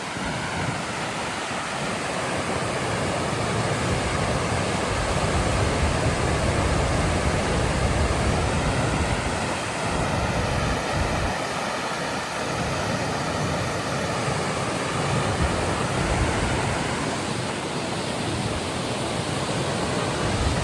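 Steady rush of a large waterfall, a dense unbroken roar of falling water, with wind buffeting the microphone in gusts now and then.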